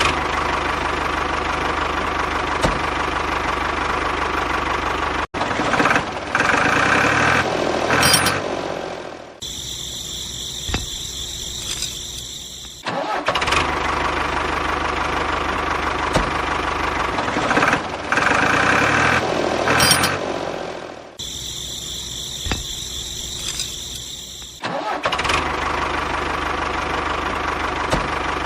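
Tractor-style engine running steadily with louder surges, dropping back twice to a quieter stretch where a high whine comes through. The whole pattern repeats about every twelve seconds.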